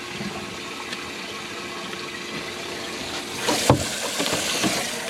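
Water running and splashing, with a louder stretch of splashing starting about three and a half seconds in.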